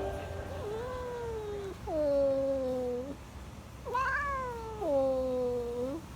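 A domestic cat, an American Shorthair–Scottish Fold cross, meowing four times, each meow about a second long and gliding down in pitch with an upturn at the end.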